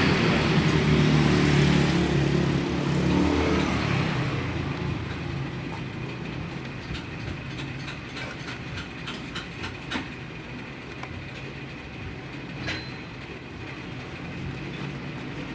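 A motor vehicle's engine passing, loudest in the first three seconds and then fading, followed by a few light clicks.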